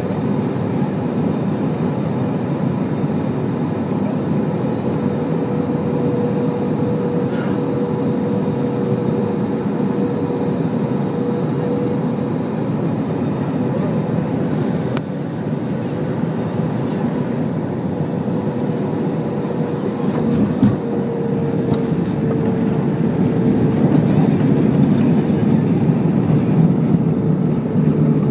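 Steady noise inside a passenger airliner's cabin: engine and airflow noise with a faint steady tone that slowly drops a little in pitch. A short knock about twenty seconds in.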